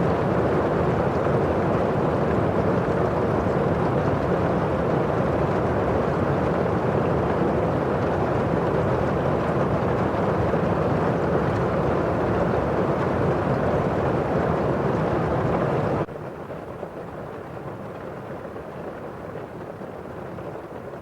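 Steady rain falling on window glass, a dense, even hiss. About sixteen seconds in it drops suddenly to a quieter, duller rain sound.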